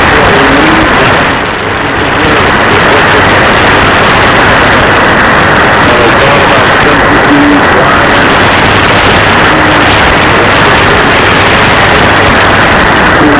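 Shortwave radio receiver audio from an SDRplay RSP1 software-defined radio, almost all static and electrical interference noise. The noise is cut off sharply above about 2 kHz by the receiver's filter, and faint traces of a weak signal barely show under it. Strong impulse interference, which the owner blames on neighbours' poorly filtered power supplies, fills the band.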